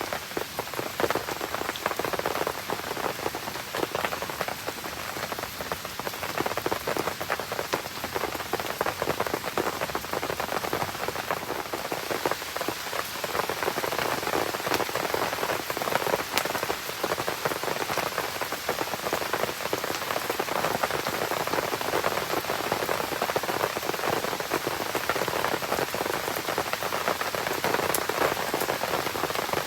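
Steady rain falling, a dense, even patter of drops on surrounding surfaces.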